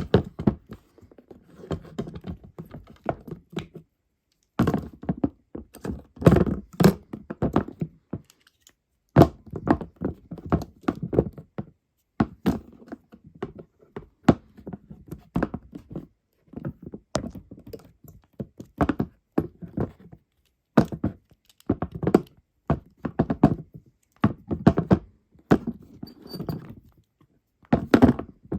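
Irregular clusters of thunks and knocks, hard objects striking one another, several in quick succession at a time, with a brief gap about four seconds in.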